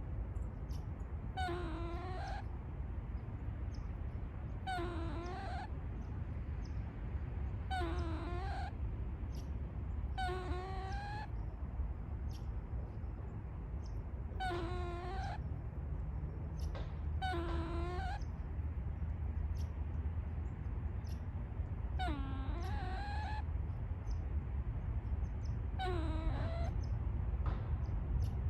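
Gray squirrel giving a repeated whining, moaning call: about nine short calls, each under a second, spaced a few seconds apart. A steady low rumble runs underneath.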